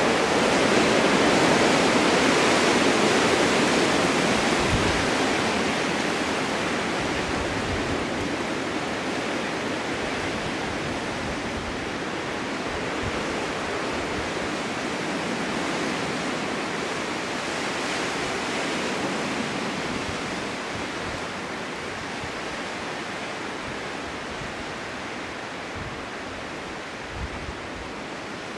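Strong wind blowing in a snowstorm, a steady rushing that swells in a gust near the start and then slowly eases off.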